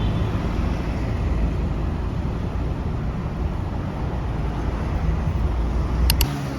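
Steady low rumble of outdoor, vehicle-like background noise, with two sharp clicks and a drop in level about six seconds in.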